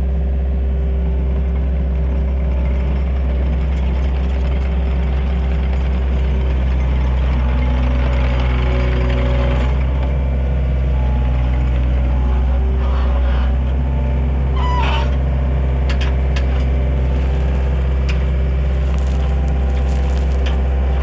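Engine of a Takeuchi TL130 compact track loader running steadily, its pitch shifting slightly in the middle, with a few sharp clicks near the end.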